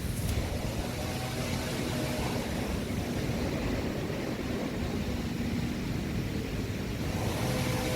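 A steady mechanical drone with a faint low hum, like a motor running.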